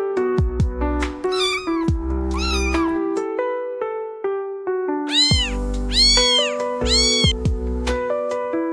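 Kitten meowing over gentle piano-led background music: two short wavering meows, then three louder high meows that rise and fall in pitch.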